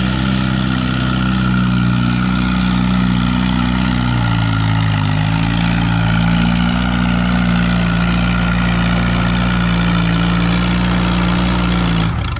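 Antique farm tractor engine running hard under load while pulling a weight sled; its note sags about four seconds in, then holds steady.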